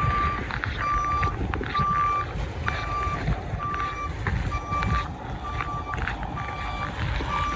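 Vehicle backup alarm beeping steadily, one beep about every second, over a low rumble.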